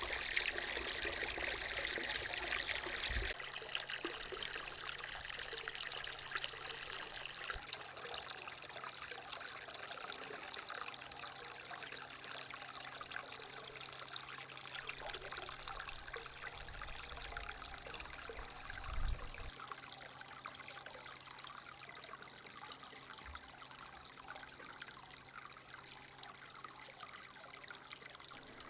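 Water running or trickling steadily. It starts suddenly, is louder for the first three seconds or so, then settles. There is a brief low thump about two-thirds of the way through.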